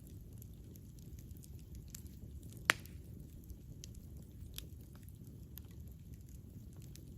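Campfire burning: a steady low noise of the flames with scattered light crackles, and one sharp, much louder pop a little under three seconds in.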